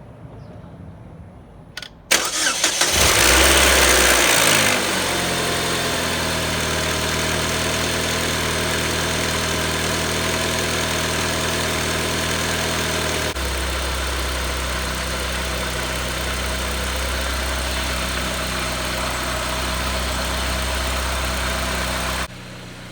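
Chevrolet Cobalt SS's supercharged 2.0 L LSJ four-cylinder starting about two seconds in, loud for a couple of seconds, then settling into a steady idle after its supercharger oil change. The low hum of the idle changes about halfway through, and the sound drops off suddenly near the end.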